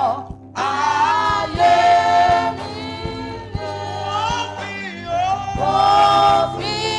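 Congregation singing a worship song together with sustained, gliding vocal lines over keyboard and drum accompaniment.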